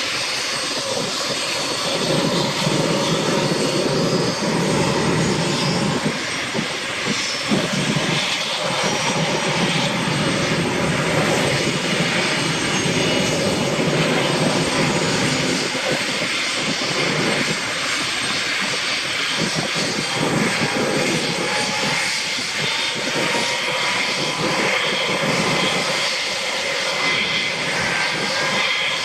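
UH-60 Black Hawk helicopter's twin turboshaft engines running during start-up: a steady turbine whine and rush, with faint tones slowly rising in pitch.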